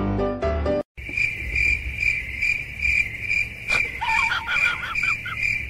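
Music cuts off just before a second in, then a cricket chirps steadily, a little over two chirps a second. About three and a half seconds in there is a click, followed by a run of short, high, wavering squeaks.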